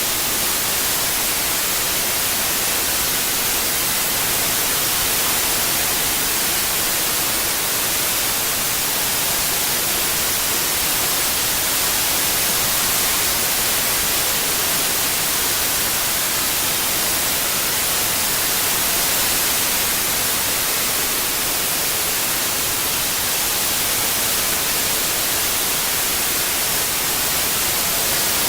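Steady white noise: an even, unbroken hiss, brightest in the high treble, with no changes.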